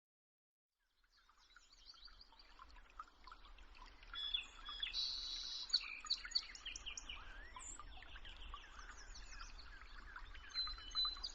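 Many small birds chirping and calling over one another in a dense chorus of short, quick, sweeping notes, fading in after about a second of silence, with a faint low hum underneath.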